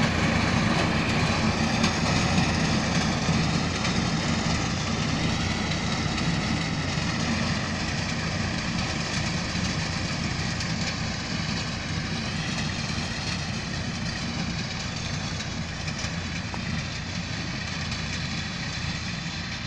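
Tractor engine running steadily under a mounted reaper, slowly growing fainter.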